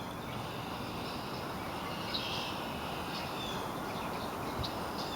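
Steady outdoor background noise with a few short, faint bird chirps.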